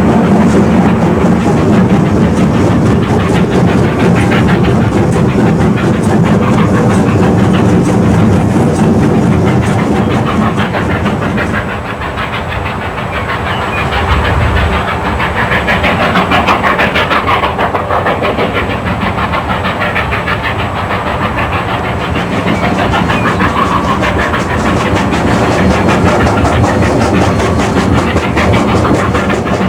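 Narrow-gauge steam train running along the line. It dips in loudness about twelve seconds in, then builds again.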